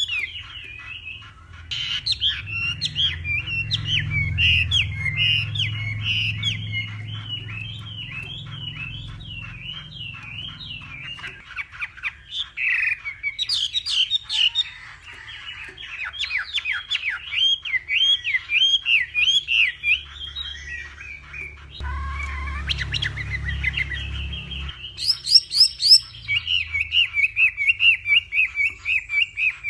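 Chinese hwamei singing a long, varied song of rapid whistled phrases, with a low hum under parts of it. Near the end the song turns to a quick run of evenly repeated notes.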